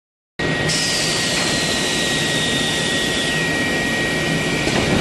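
Loud, steady machinery noise with a constant high whine, and a second whine that falls in pitch over the first few seconds and then levels off.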